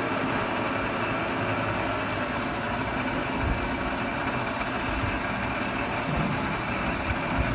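Bridgeport Series 1 vertical milling machine's spindle head running steadily in high speed at 2200 RPM, a continuous motor and drive hum.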